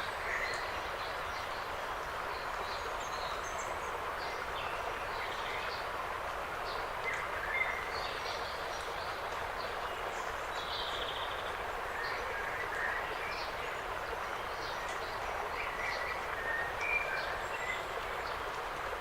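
Forest ambience: a steady rush of wind through the trees, with many short bird chirps and calls scattered throughout.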